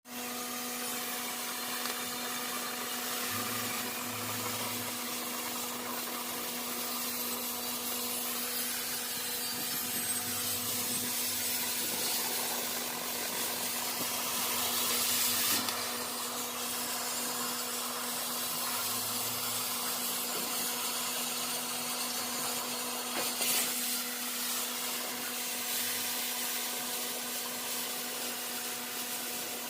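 Oxy-acetylene cutting torch on a CNC cutting machine hissing steadily as it cuts through thick steel plate, under a steady machine hum. The hiss swells louder briefly about halfway through and again about three quarters of the way in.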